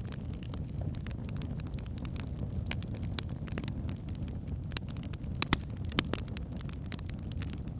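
Log fire burning in a fireplace: a steady low rumble of flames with scattered sharp crackles and pops, the loudest two about five and a half and six seconds in.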